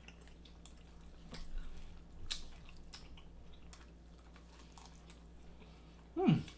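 Biting into and chewing barbecue chicken wings: soft wet mouth clicks and smacks, the loudest about a second and a half and two seconds in. A short "mm" near the end.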